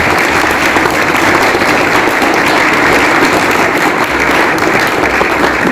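Audience applauding steadily, the clapping fading just as it ends.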